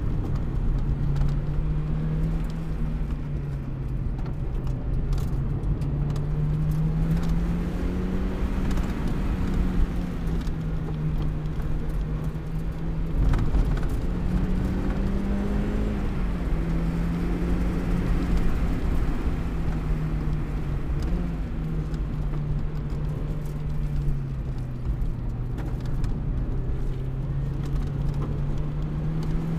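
Car engine running, heard from inside the cabin, its pitch rising and falling as the revs change, over steady road and tyre noise. A single knock about halfway through.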